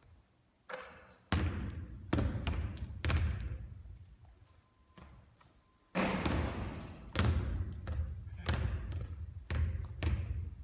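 Basketball bouncing on a court floor, a run of bounces starting about a second in and another starting about six seconds in.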